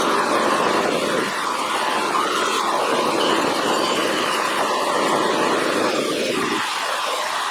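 Bench polisher running with a steel adjustable wrench worked against its big buffing wheel, a steady machine whir whose sound shifts a couple of times as the work is pressed and eased off the wheel.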